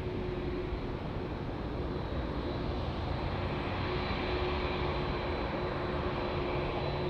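Jet airliner's engines running, a steady rumble with a high whine that comes in a few seconds in, growing slightly louder.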